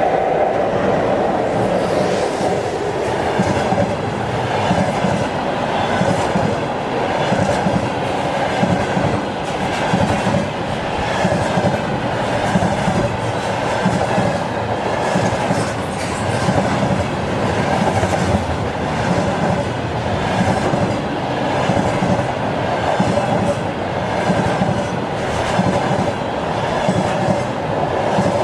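Freight train wagons rolling past, their wheels clicking over the rail joints in a steady, repeating clatter.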